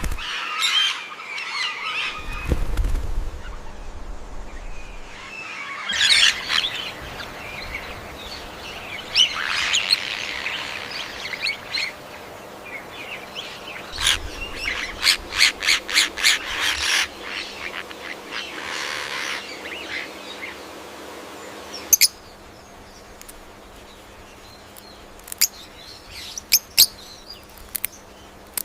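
Assorted bird calls and chirps over a faint background, changing abruptly every few seconds. In the middle there is a run of quick sharp notes, about three or four a second, and a few isolated sharp clicks near the end.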